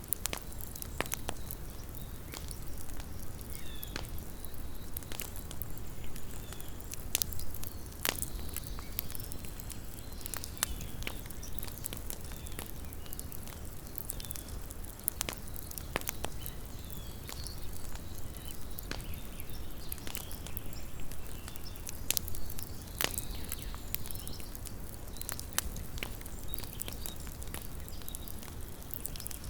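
Small wood campfire crackling, with irregular sharp pops and snaps over a low steady rumble.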